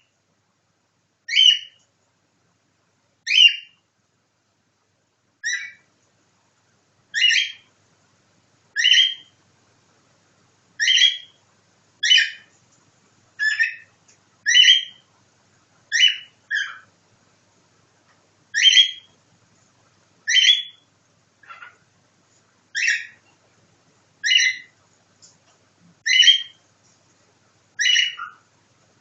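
Cockatiel giving short, sharp calls one after another, roughly one every second or two, in its imitation of a nightingale.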